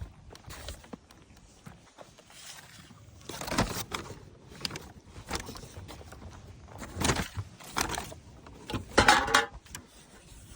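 Irregular rustling and knocking of a person moving about and handling things, a string of short, uneven bursts with the loudest near the end.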